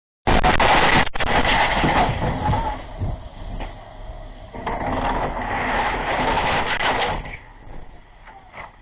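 Loud road and engine noise of a car, recorded through a dashcam's microphone. It cuts in suddenly just after the start and quietens after about seven seconds.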